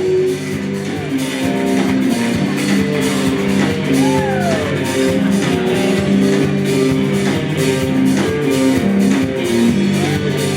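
Live band playing an instrumental passage with a steady beat, no singing.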